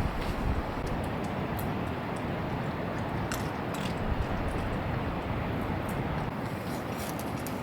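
Strong wind blowing across the microphone: a steady rush with a buffeting low rumble, and a few faint ticks scattered through it.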